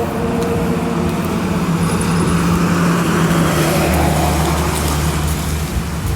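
Steady rumble of vehicle or traffic noise with a low hum, swelling in the middle.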